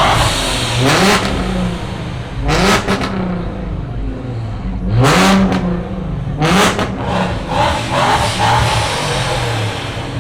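Car engine revved hard about four times, each rev climbing quickly in pitch and dropping back to a loud idle.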